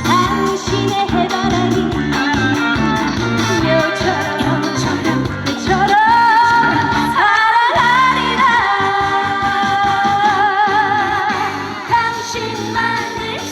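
Trot song performed live: a woman singing over a band backing track, holding a long note with vibrato about halfway through.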